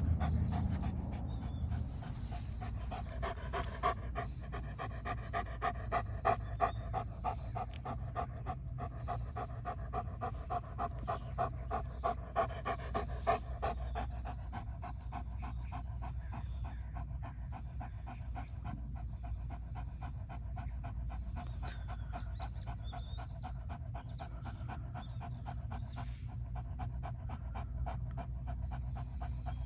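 Dog panting rapidly and steadily, several breaths a second, louder and more voiced for the first half and softer after that.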